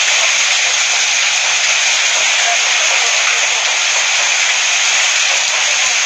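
Heavy storm rain falling steadily, a loud unbroken hiss of water.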